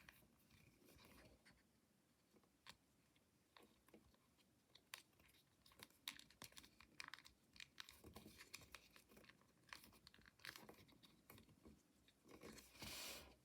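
Faint, scattered small clicks and light rustles of packaging and miniature toys being handled, with a brief crinkle near the end.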